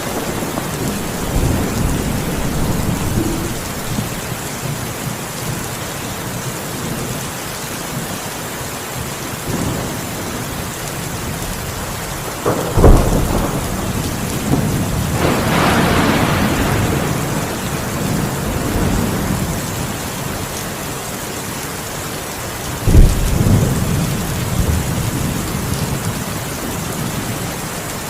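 Heavy rain falling steadily, with thunder: a sharp crack about halfway through, a rolling rumble soon after, and another crack near the end.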